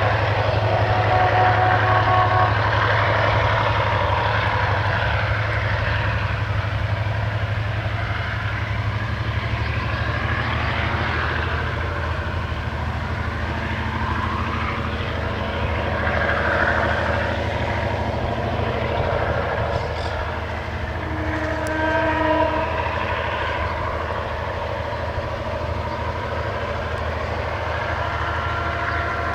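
Diesel train running, with a steady low engine drone under a broad rumble of rolling noise. Short groups of steady tones come about a second in and again about twenty seconds in.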